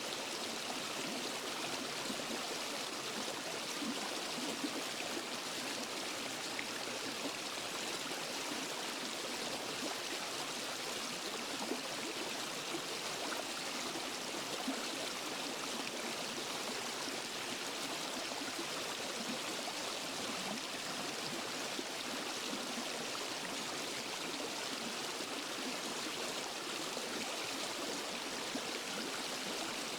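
Waterfall and forest stream: water rushing and splashing over rocks in a steady hiss.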